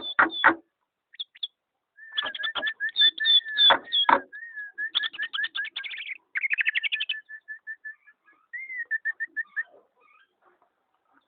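Pet bird singing: fast runs of short repeated whistled notes and trills, opening with a few harsh chattering notes and trailing off about nine and a half seconds in.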